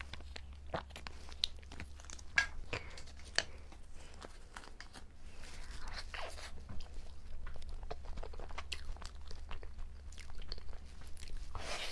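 Close-up eating sounds of a cream-filled snow puff dessert: irregular soft chewing, lip smacks and small mouth clicks, over a faint steady low hum.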